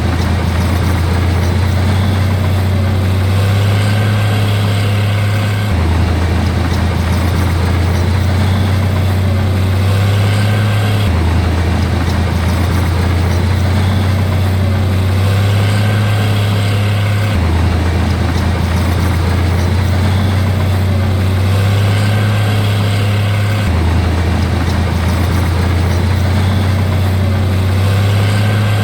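Heavy diesel engine of construction equipment running steadily with a loud low drone. Its pitch steps slightly up and down every five to six seconds.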